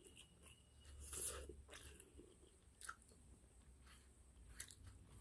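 A person chewing a mouthful of food: quiet, wet mouth sounds with a few sharp clicks, loudest about a second in.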